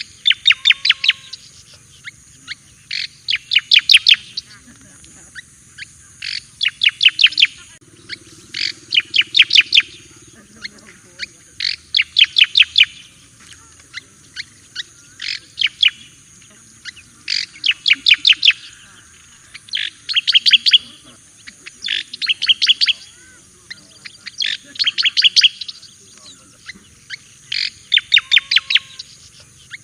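Cica koreng jawa (striated grassbird) singing: short phrases of rapid, clipped notes, each about a second long and repeated about every two seconds, over a steady high hiss.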